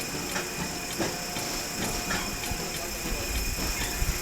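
Electric tram running along its track: a steady hissing rumble with light, evenly spaced ticks about twice a second.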